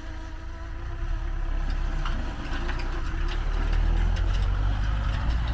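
Tractor engine running with a heavy low rumble that grows louder from about a second in, with scattered clicks and rattles in the second half.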